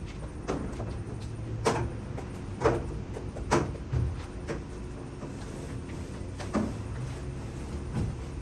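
Irregular knocks and clunks, about eight of them, over a steady low hum.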